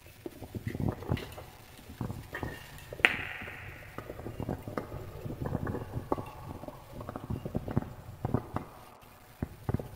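Wood fire crackling in a fireplace, with irregular pops and snaps of burning logs; one sharp, loud pop about three seconds in.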